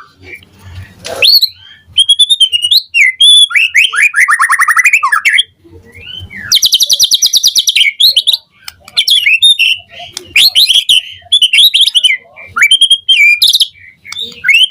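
White-rumped shama (murai batu) singing loudly in a fast, varied song of whistled notes sweeping up and down, with a rapid run of notes around the middle and a very fast, high trill just after.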